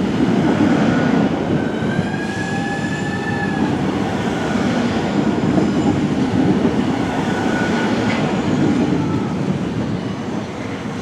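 A train running through the station with a steady rumble of wheels on the rails. The wheels squeal briefly a couple of times, most clearly about two seconds in.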